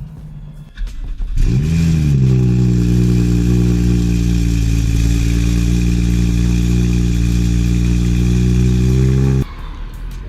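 BMW 435i's turbocharged straight-six starting about a second and a half in, its revs flaring briefly and then settling to a steady idle, which cuts off abruptly near the end.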